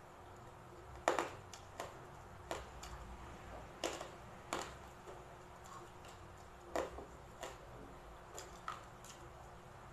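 Close-up eating sounds: chewing crispy fried pork belly with about nine sharp, separate crunches and clicks, the loudest about a second in.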